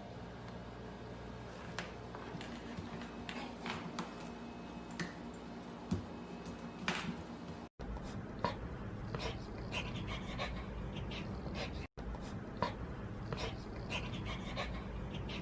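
Golden retriever puppy sounds with scattered short clicks and knocks over a steady low hum. The sound drops out abruptly twice, about eight and twelve seconds in, as clips change.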